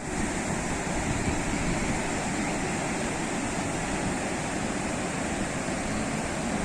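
Sea waves washing onto a shore, a steady rushing surf.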